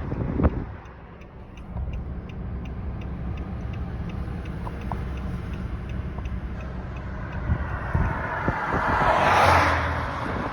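Steady low rumble of a motor vehicle with a faint, fast, regular ticking. About nine seconds in, a broad whoosh swells and fades, like a vehicle going past.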